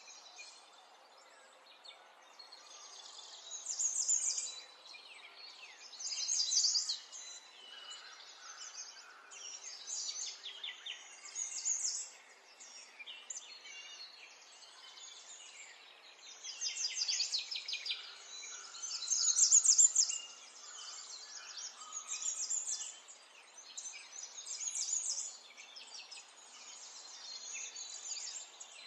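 Birds chirping in short, rapid, high trills every few seconds over faint background hiss. The trills are loudest a little past the middle.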